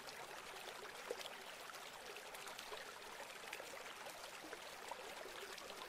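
Running water from a small stream: a faint, steady babble with many tiny splashes.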